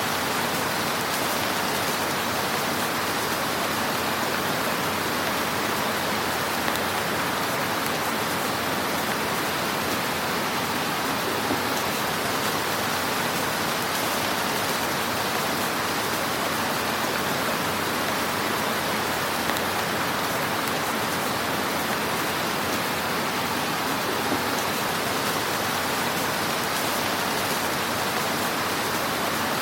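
Wood fire crackling in a fireplace: a dense, steady hiss of fine crackles with a few louder pops scattered through it.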